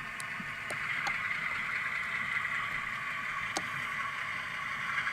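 Model diesel locomotive's Tsunami sound decoder playing a running diesel engine sound through a small, tinny speaker, a steady rumbling hiss with a few sharp clicks.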